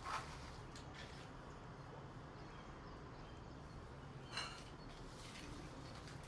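Faint outdoor background with a steady low hum, broken twice by a brief sharp sound: once right at the start and again about four seconds later.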